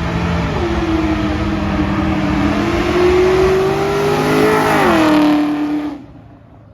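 Car engine revved and held high, its pitch climbing slowly, then falling off about five seconds in. The sound cuts off abruptly a second later.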